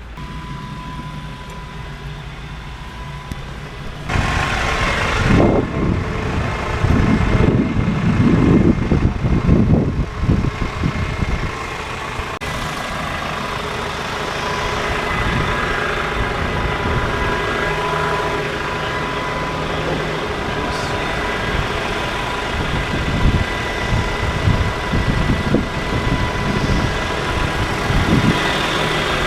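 Fuel truck's engine idling beside the parked plane during refuelling, a steady low rumble. Louder irregular noise comes and goes between about four and eleven seconds in.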